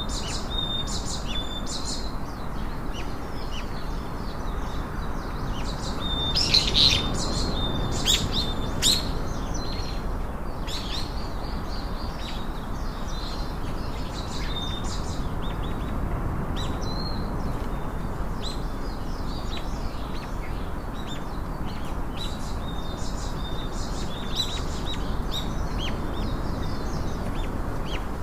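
Many small birds chirping and twittering in short, overlapping calls, busiest about a quarter of the way in, over a steady low background rush.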